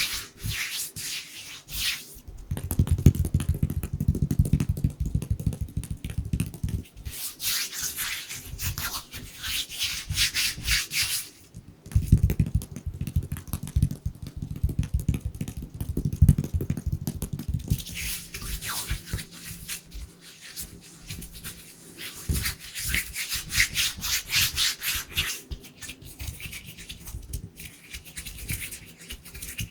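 Dry bare hands rubbing together quickly close to the microphone, a fast scratchy swishing. It alternates with stretches of rapid, muffled low hand movements against the microphone.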